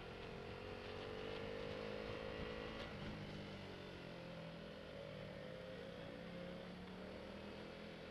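Motorcycle engine running at a steady cruise, its note drifting slightly up and down in pitch, with road and wind noise, heard through the bike-mounted action camera's microphone.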